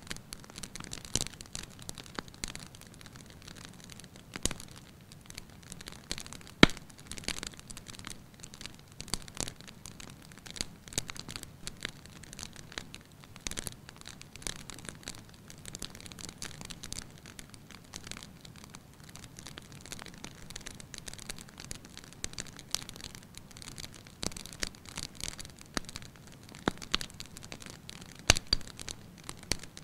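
Wood fire burning in a fireplace, crackling with irregular sharp pops over a soft steady hiss; the loudest pop comes about six and a half seconds in.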